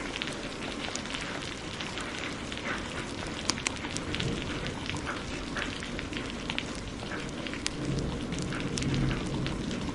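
Steady hiss of heavy rain mixed with a crackling wood fire, its sharp pops and snaps scattered throughout. A low rumble, like distant thunder, swells near the end.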